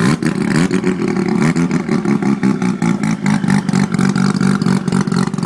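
A car engine running hard and revving, with a dense, rapid pulsing.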